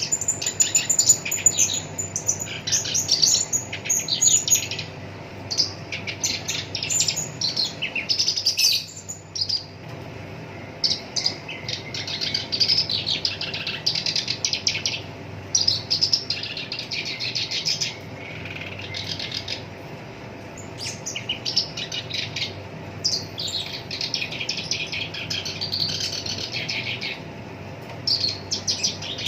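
Black-browed reed warbler singing a fast, harsh, chattering song in bursts of a second to a few seconds with short pauses between them, over a faint steady low hum.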